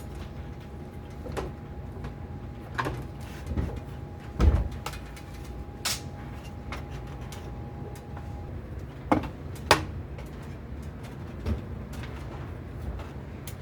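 Scattered knocks and clicks of objects being handled: the loudest is a dull thump about four and a half seconds in, then two sharp clacks near ten seconds, over a steady low hum. A faint steady tone stops about eight and a half seconds in.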